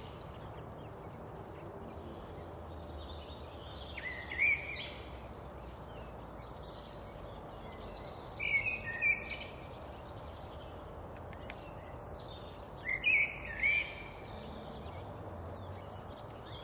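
Birds chirping in three short bouts of calls over a steady, low background noise of open air.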